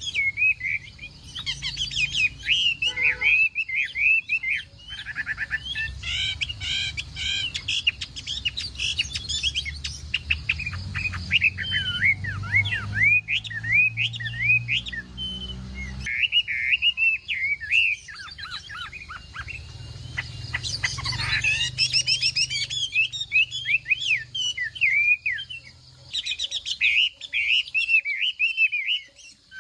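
Chinese hwamei singing a long, varied song of rapid whistled phrases and trills, barely pausing.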